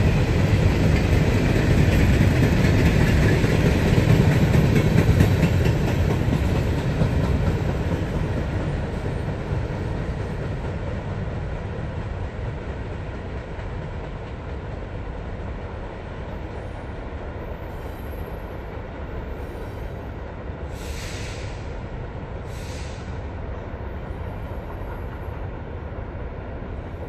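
Empty coal hopper cars rolling past on the rails: a steady rumble and wheel noise that gradually fades over the first half. Two short, high hissing sounds come near the end.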